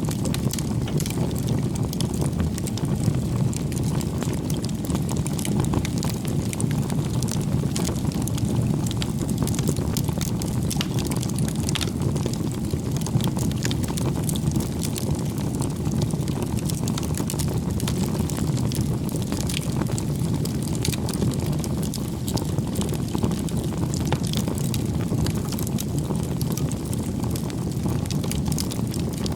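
Campfire crackling: many small sharp pops and snaps over a steady low rush of burning wood.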